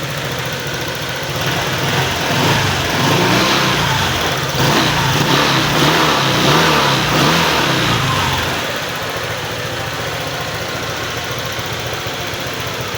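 Honda PCX 150's single-cylinder four-stroke scooter engine, freshly overhauled, running. It idles, is revved up and down several times between about one and a half and eight and a half seconds in, then settles back to a steady idle.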